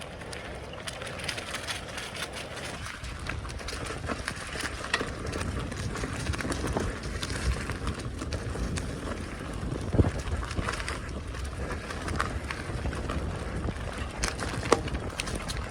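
Bicycle being ridden over a rough track: a steady rush of tyre and wind noise with frequent small rattles and knocks, and a sharper knock about ten seconds in and again near the end.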